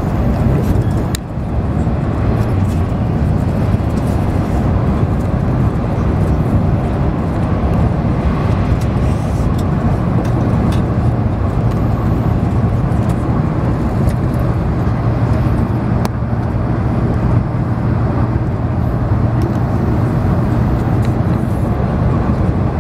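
Steady low rumble of a passenger train running at speed, heard from inside the carriage, with a few faint clicks.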